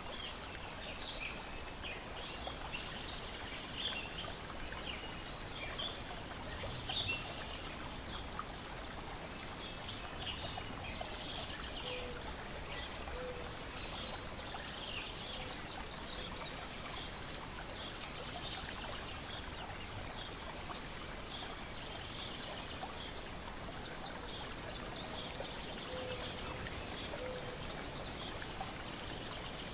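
Lake water gently lapping and splashing in a steady wash, with birds chirping in short high calls throughout.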